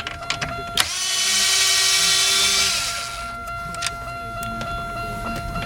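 Cordless drill-driver with a 7 mm socket backing out an instrument-cluster screw: a click, then the motor runs for about two seconds and stops, followed by a few light clicks of the tool and screw being handled.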